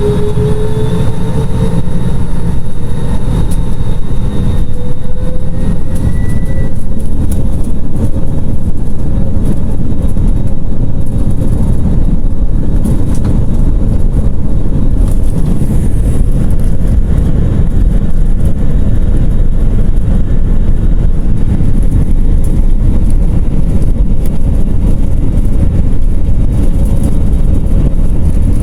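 Jetstar airliner's jet engines heard from inside the cabin. A whine rises in pitch over the first few seconds as the engines spool up, then gives way to a loud, steady roaring rush with heavy low rumble at high thrust.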